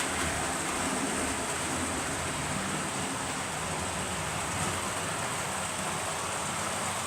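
English Electric Type 3 (Class 37) diesel locomotive running steadily, a low engine hum under a constant hiss.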